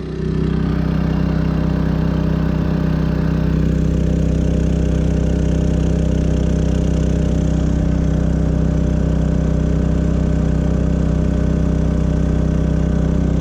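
Champion 3400-watt dual fuel inverter generator running steadily under heavy load, about 2700 W from a space heater and a heat gun, working harder and louder than at no load, about 85 dB right beside it. A faint high hiss joins about three and a half seconds in.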